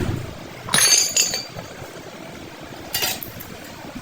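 Metal striking metal: three sharp clinks with a brief ringing, the loudest about a second in, from tools and steel parts being knocked together during wheel bearing work.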